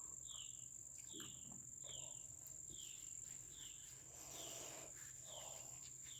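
Faint, steady high-pitched insect drone, with a bird repeating one short falling call about every 0.8 seconds, eight times.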